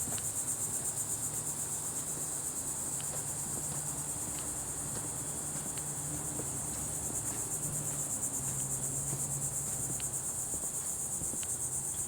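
A steady, high-pitched chorus of insects trilling, with a low hum underneath.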